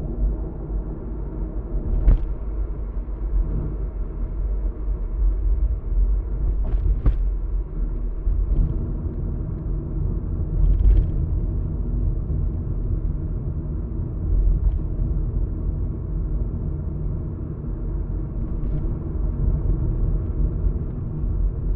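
A car driving, heard from inside: a steady low rumble of tyre and engine noise, with a few brief knocks scattered through it.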